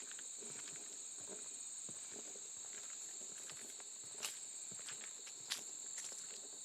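Steady high-pitched insect chorus, with footsteps knocking on a wooden boardwalk; two sharper steps come about four and five and a half seconds in.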